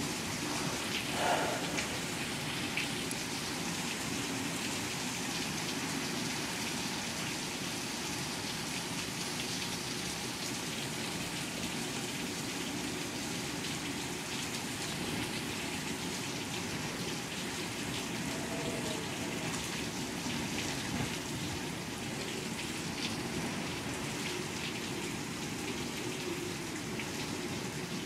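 Steady rain falling in a severe thunderstorm, an even unbroken wash of sound.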